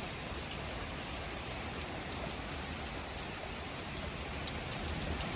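Heavy thunderstorm rain falling steadily, a dense hiss with a few faint ticks of drops striking nearby.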